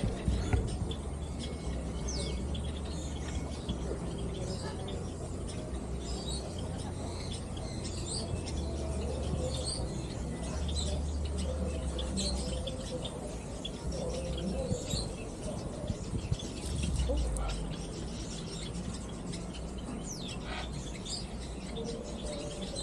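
Many birds chirping and calling in short scattered notes, over a low steady rumble.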